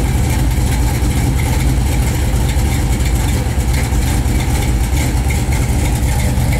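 Freshly rebuilt 355 small-block V8 with a Lunati cam, breathing through Hooker headers and Flowmaster mufflers, idling steadily with a deep exhaust note. The engine is still in its break-in period.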